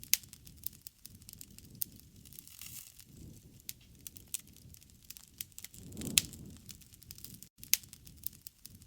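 Wood campfire crackling, with irregular sharp pops over a low rush of the flames; the rush swells and the loudest pop comes about six seconds in.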